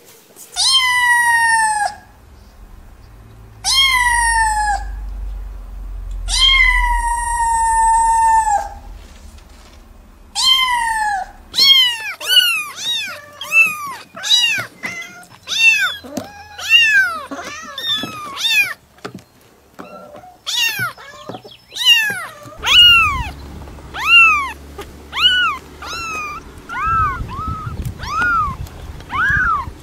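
Young kittens meowing. First come four long, high-pitched mews that fall in pitch, then a quick run of short mews, one or two a second and sometimes overlapping, from several kittens at once.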